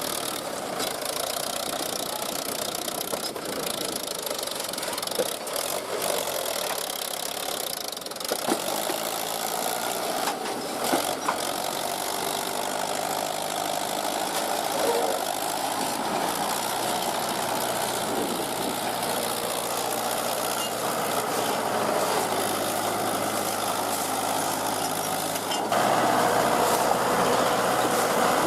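Diesel engine of working farm or earth-moving machinery running steadily. The note changes about eight seconds in and grows louder near the end.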